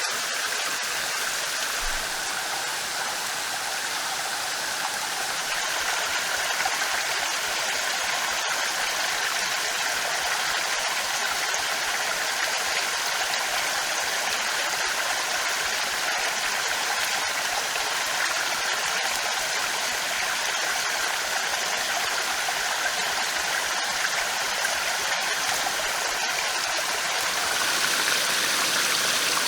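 Steady rushing of running water, like a forest stream, growing a little louder near the end.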